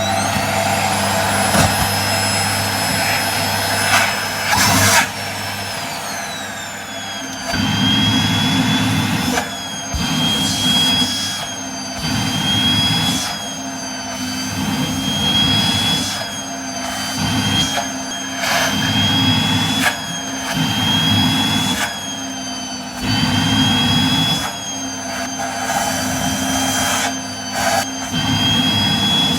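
Vacuum cleaner motor running with a high whine. From about seven seconds in, the suction noise swells and drops every second or two and the whine sags and recovers, as the nozzle is pressed on and pulled off something that blocks the airflow.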